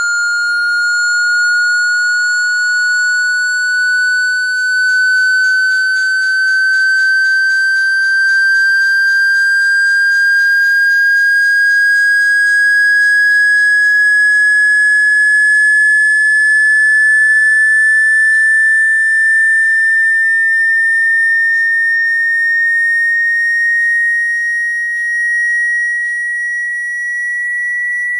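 A loud, pure whistling tone that climbs slowly and steadily in pitch, with a faint rapid crackle above it for a while near the start.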